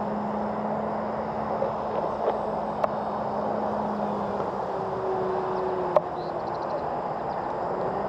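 Distant steady hum of an electric RC airplane's brushless motor and propeller over an outdoor noise bed. The pitch steps up about five seconds in, and two faint clicks are heard.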